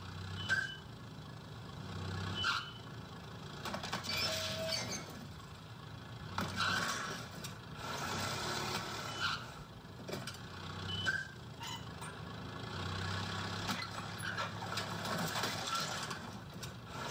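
Sound effects of a car engine revving in repeated short bursts while backing a boat trailer, with sharp knocks and clunks scattered through, played back through a TV speaker.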